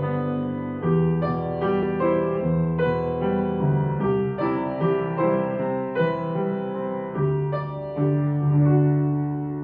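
Soft piano-like keyboard music, a gentle melody of single notes about two a second over held low bass notes.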